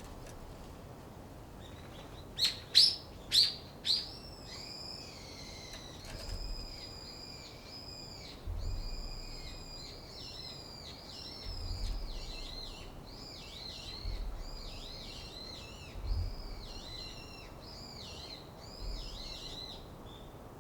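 Small garden songbirds calling: four sharp, loud calls in quick succession, then a long run of quick, high, looping warbling notes.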